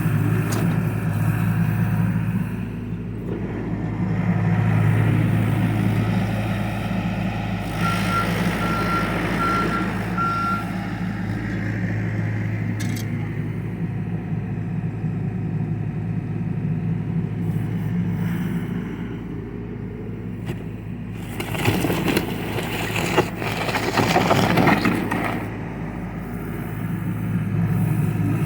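John Deere excavator's diesel engine running steadily under load, with a travel alarm beeping about five times in quick succession a third of the way through. Later comes a few seconds of louder rough clattering and scraping as the machine works.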